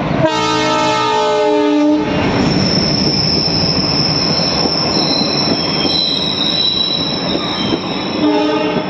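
Train horn sounding for about two seconds, then a high steady squeal of steel wheels on the rails over the rumble of the passing train. A second short horn blast comes near the end.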